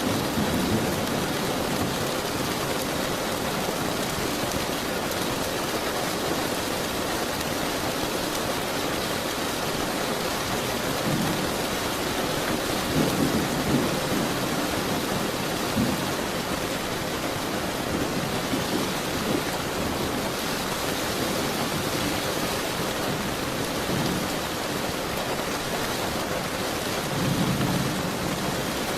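Steady rain falling hard, with low rolls of thunder swelling up several times: near the start, a few times in the middle and again near the end.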